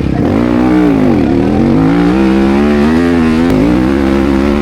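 Motocross bike engine revving under race throttle. Its pitch falls sharply about a second in as the throttle is shut, then climbs back and holds high, rising slowly.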